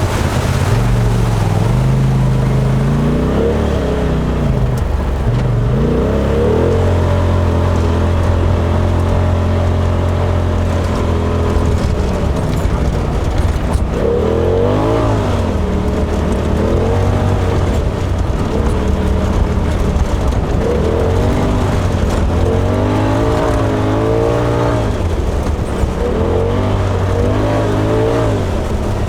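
2018 Polaris RZR XP Turbo S side-by-side's turbocharged twin-cylinder engine running under way, its revs holding steady for several seconds, then rising and falling again and again as the throttle is worked.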